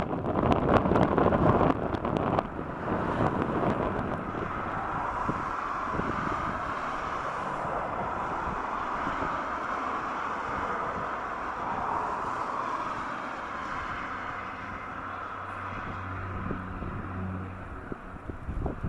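Jet aircraft engine noise from a landing, a steady rushing that swells and eases slowly, with strong wind gusts buffeting the microphone for the first couple of seconds.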